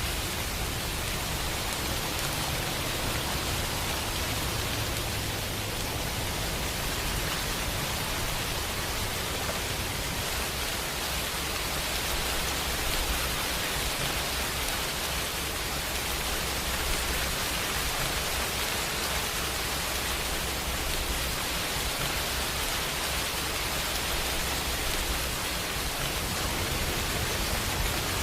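Steady, even rainfall, a continuous hiss of drops with a low rumble underneath.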